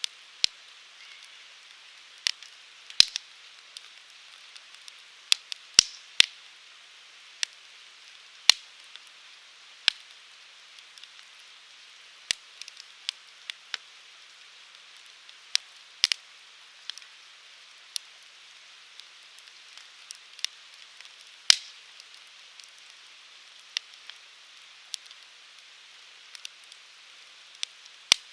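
Wood fire burning in a fire grill: a steady soft hiss with sharp crackles and pops at irregular intervals, roughly one every second or two.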